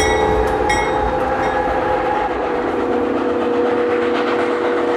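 Train sounds: a held multi-note whistle tone over steady rail running noise, with a couple of ringing crossing-bell strikes in the first second.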